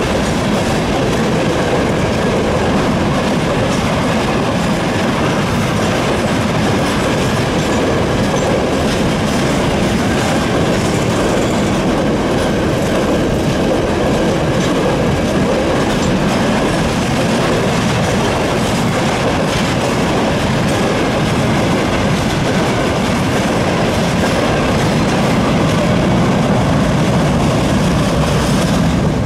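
Freight train rolling past at close range, a steady loud rumble of wagon wheels on the rails with a clickety-clack over the rail joints.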